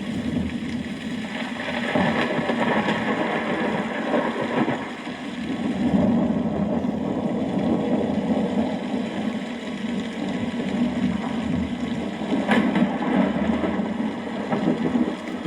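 Steady rainfall: a dense, even hiss with a low-pitched undertone, and one sharp tick about twelve seconds in.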